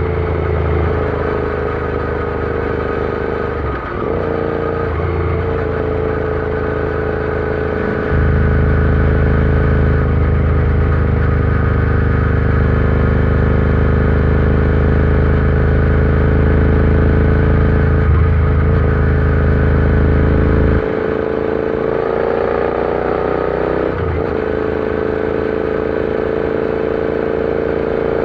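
Royal Enfield Interceptor 650's parallel-twin engine running steadily under way, with brief sags in the engine note about four, eighteen and twenty-four seconds in. A louder low rumble joins it from about eight seconds in until about twenty-one seconds.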